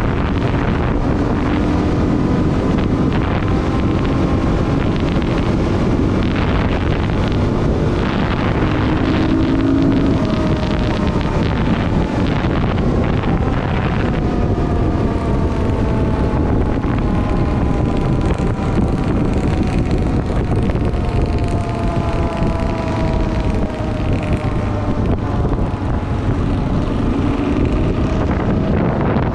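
Dual-sport motorcycle engine running at speed, its pitch shifting with the throttle and falling slowly through the second half, under heavy wind noise on the microphone.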